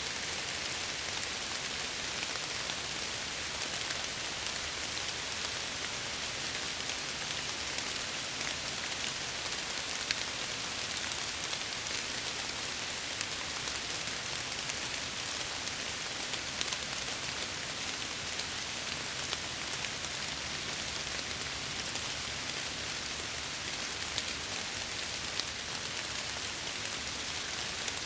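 Steady rain falling, with drops pattering against window glass.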